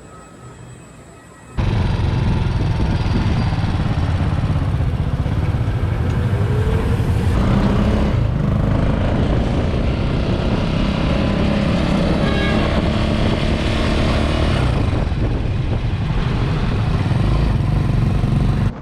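An engine running steadily under way, a loud rumble that cuts in suddenly about a second and a half in.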